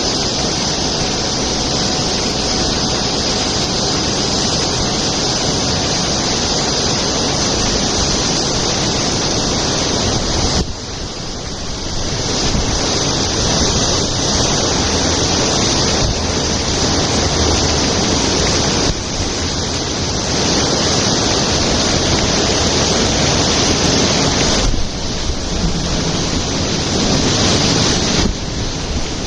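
A large whirlpool sucking water down into a deep hole: a steady, loud rushing of water with a few brief dips in level.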